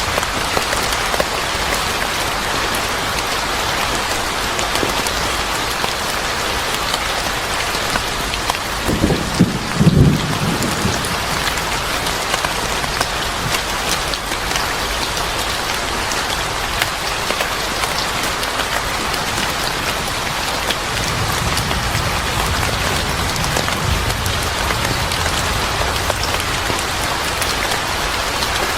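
Steady rain pouring, with a short low rumble of thunder about ten seconds in and a fainter one later.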